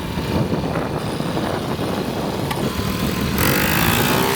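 Dirt bike engine running while being ridden, with a steady rumble and wind noise. About three seconds in, the engine revs up, its pitch climbing.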